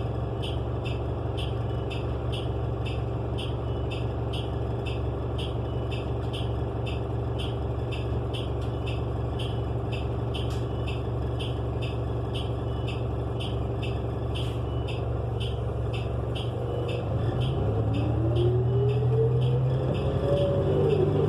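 Cabin sound of a 2018 New Flyer XN35 bus with a Cummins Westport L9N natural-gas engine, unmasked by HVAC. The engine drones steadily under a regular ticking of about two or three a second. Near the end it grows louder and climbs in pitch as the bus accelerates through its Allison transmission.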